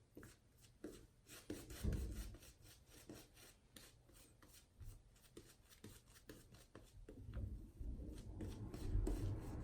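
Shaving gear being handled: faint small clicks and soft rubbing, with a steadier rubbing building from about seven seconds in.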